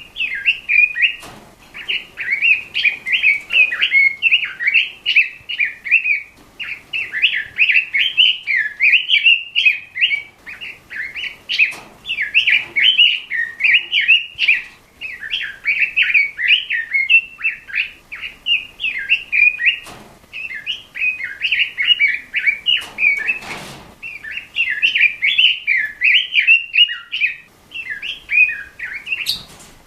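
Pekin robin (red-billed leiothrix) singing vigorously: a fast, continuous, high warbling song delivered in long phrases with only brief pauses. A few faint knocks are heard now and then.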